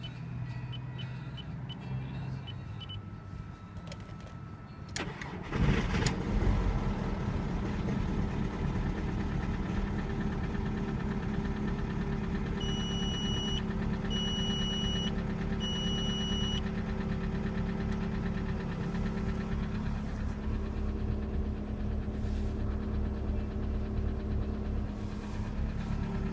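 1999 Škoda Octavia 1.9 TDI four-cylinder diesel on a cold start at −10 °C: it cranks briefly and catches about five seconds in, flares up, then settles into a steady idle. Three short beeps sound about halfway through.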